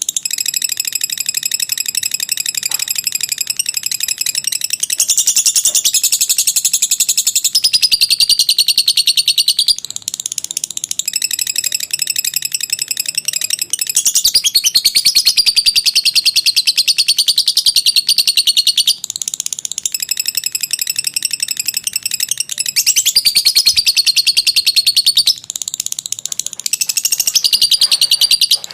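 Lovebird in long chattering song ('ngekek panjang'): a fast, stuttering run of shrill notes held for several seconds at a time, with short breaks between the runs.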